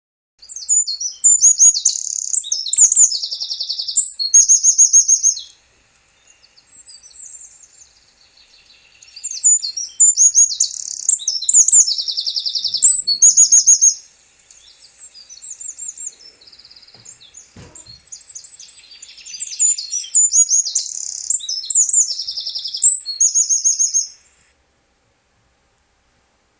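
A songbird singing: three long, loud bursts of fast high trills and chirps, each about five seconds, with quieter chirping in the gaps between them.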